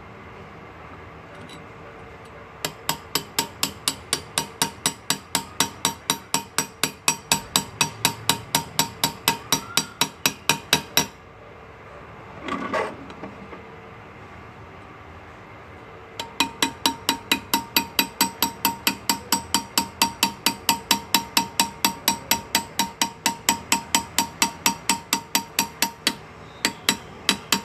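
Engraver's hammer tapping a hand graver into metal, sharp taps at a steady four or so a second in two long runs with a pause of a few seconds between them.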